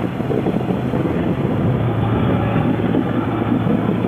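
Motorcycle engine running steadily while riding, mixed with wind rushing over the helmet-mounted microphone.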